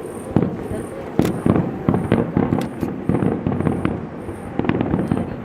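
Fireworks bursting: an uneven, rapid string of sharp bangs and crackles.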